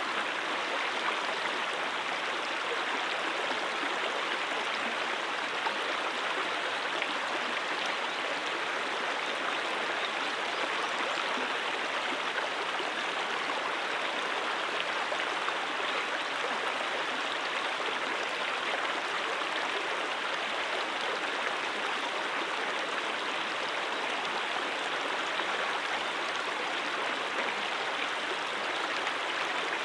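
Brook water running steadily, an even, unbroken flowing sound with no separate splashes or changes.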